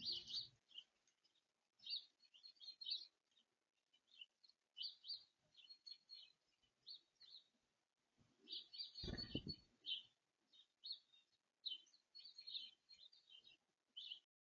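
Small songbirds chirping in short, repeated bursts, with a brief low thump about nine seconds in.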